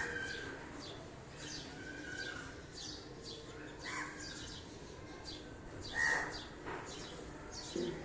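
Sparrows chirping: a steady run of short, quick chirps that fall in pitch, about two a second, with a few louder calls mixed in.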